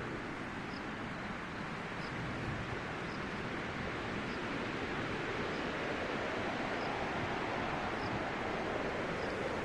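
Strong wind blowing steadily, a continuous rushing noise, with faint high peeps repeating about once a second.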